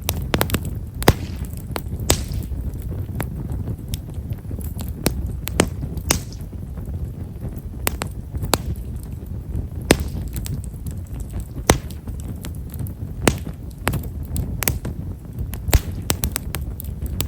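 Japanese stewartia (himeshara) firewood burning in a campfire, giving small, fine crackling pops at irregular intervals over a low steady rumble.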